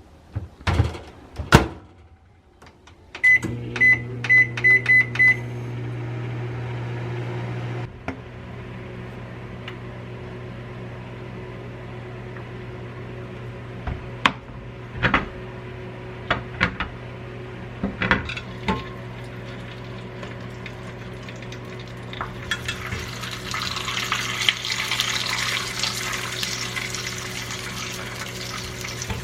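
Microwave oven: clicks, then a string of about six short keypad beeps, and the oven starts running with a steady low hum, which gets quieter about eight seconds in. Scattered clicks and knocks follow, and a hiss starts a few seconds before the end.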